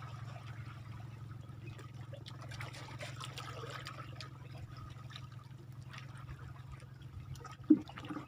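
Seawater trickling and lapping at the shoreline over a steady low hum, with one short, louder sound near the end.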